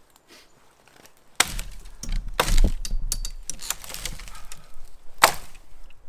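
Axe chopping a small tree: a sharp strike about a second and a half in, followed by a couple of seconds of dense crackling and rustling of breaking wood and branches, then another hard axe strike near the end.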